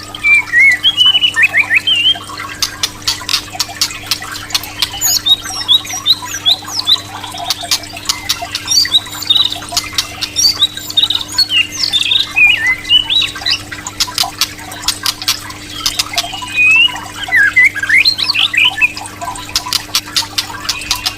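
White-rumped shama (murai batu) singing: quick gliding whistled notes run together with rapid harsh clicking and rattling notes, over a faint steady hum.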